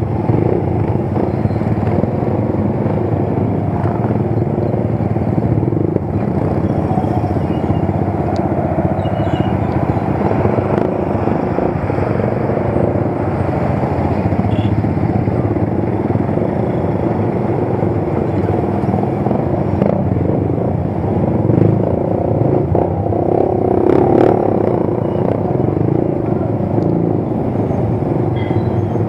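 Motorcycle engine running steadily on the road, with continuous road noise and no change in pace.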